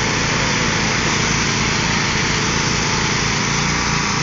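Small engines of two riding lawn mowers, a Craftsman and a Troy-Bilt, running steadily under load as the two machines pull against each other in a tug-of-war.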